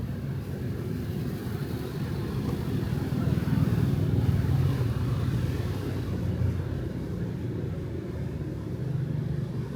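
City street traffic: engines of passing vehicles rumbling steadily, swelling to a peak about halfway through as one passes close.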